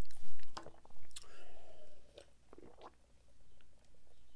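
Close-miked eating mouth sounds: chewing with wet clicks and smacks, a short hum about a second in, then a drink taken from a paper cup near the end.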